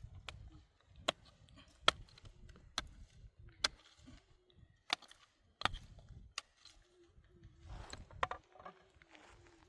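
A series of sharp, hard knocks, roughly one a second, over a faint low rumble.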